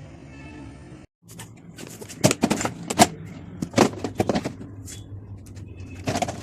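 A run of sharp clicks, knocks and rustles from packages and containers being handled, the loudest knocks about two to four seconds in, after a brief cut to silence near the start.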